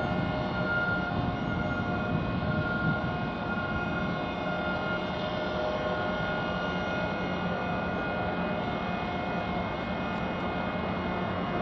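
Jet airliner engines running with a steady whine: several held tones over a continuous rush.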